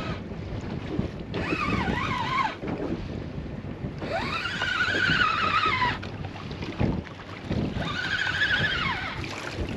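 Fishing reel being wound in, its gears giving a whine that rises and falls in three spells of winding, over steady wind noise on the microphone.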